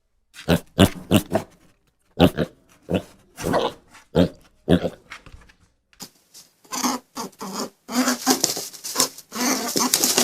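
A farm animal calling: a quick series of short, separate calls, then denser, harsher calling from about six seconds in.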